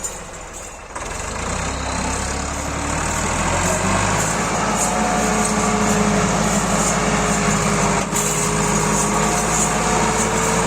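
Massey Ferguson 260 turbo tractor's diesel engine revving up about a second in, then held at high revs under heavy load, its pitch creeping slowly higher as it strains to pull a loaded sugarcane trolley out of mud.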